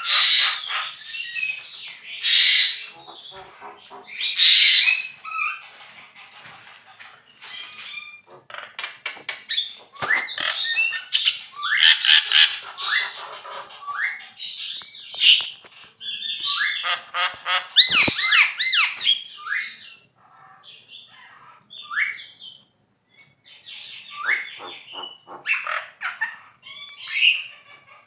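Javan myna (jalak kebo) calling vigorously: loud harsh squawks, fast rattling chatter and short rising whistles, in irregular bursts with brief pauses.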